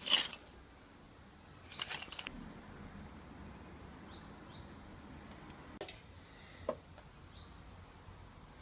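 Scattered sharp clicks and clatters, as of tools or small metal parts being handled: a loud one right at the start, a short burst about two seconds in, and two more near six and seven seconds.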